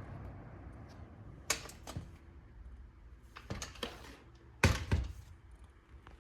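The last of a box fan's airflow noise dying away, then a handful of sharp clicks and knocks, the loudest a pair near the end.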